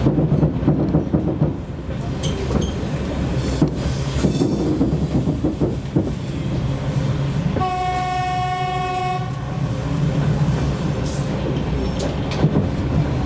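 Riding behind a TEP70 diesel locomotive: the train runs with a steady low rumble and scattered clicks of the wheels over the rails. One steady horn blast of under two seconds sounds about eight seconds in.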